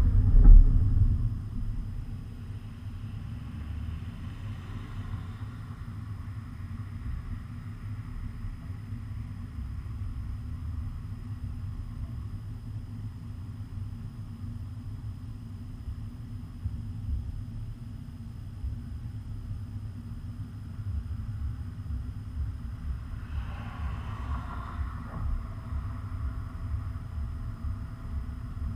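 Steady low rumble of a motor vehicle, louder at first and settling after about two seconds in.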